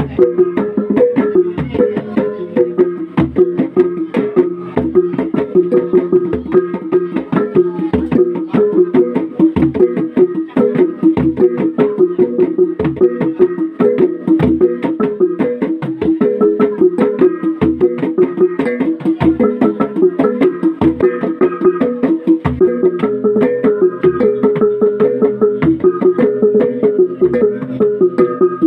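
Traditional Sumba gong ensemble playing: a fast, repeating interlocking pattern of struck, ringing gongs, with a deep low beat about every one and a half seconds.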